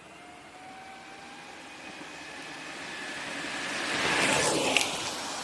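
Electric skateboard with dual belt-drive motors and 110 mm wheels passing by. The motor whine and the roll of the wheels on pavement build to a peak about four seconds in, then fade, with a sharp click at the loudest moment.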